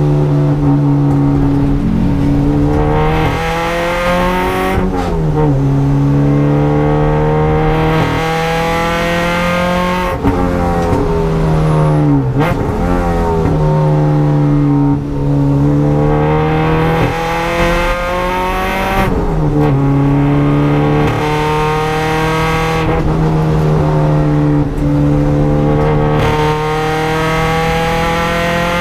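EG Honda Civic's four-cylinder engine heard from inside the cabin under hard driving, its note climbing steadily as the revs rise and dropping sharply at each gear change or lift, several times over.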